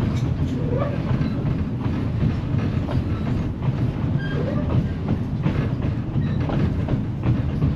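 Narrow-gauge passenger coach rolling along, heard from inside: a steady low rumble with the clatter and knocking of wheels over the rail joints and rattling of the car.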